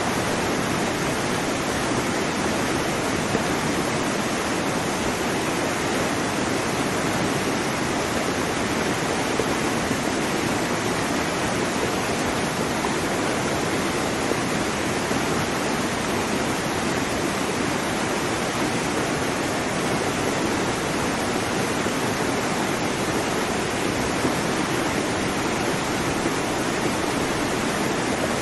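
Waterfall: falling water in a steady, even rush that does not change.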